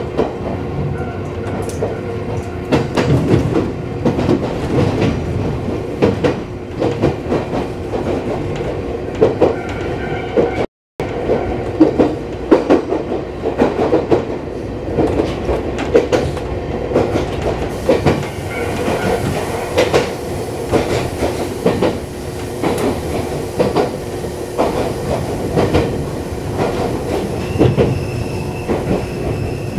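Iyo Railway electric train running along the line, heard from the driver's cab: a steady hum with the wheels knocking and clacking over the rail joints. The sound drops out completely for a moment about eleven seconds in.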